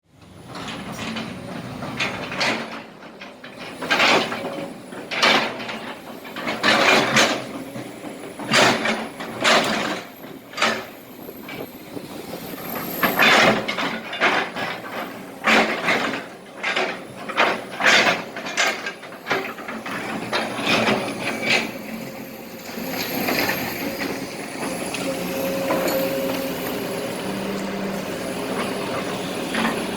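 Kobelco SK200 hydraulic excavator loading broken asphalt and small rocks into a truck: repeated loud clattering and scraping as the bucket digs and drops the rubble, over the running engine. In the last several seconds the clatter stops and the machine settles into a steady engine drone.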